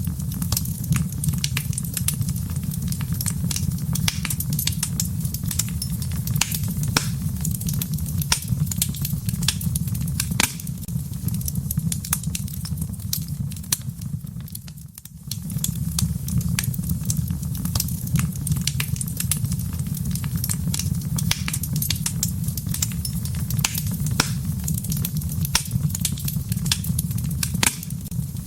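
Wood fire crackling in a fireplace: dense, irregular pops and snaps over a steady low rumble of flames. About halfway through, the sound fades down briefly, then comes back to full.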